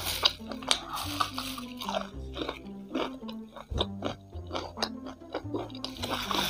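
Background music with a moving bass line, over close-up crunching and chewing of crispy fried chicken feet in sauce.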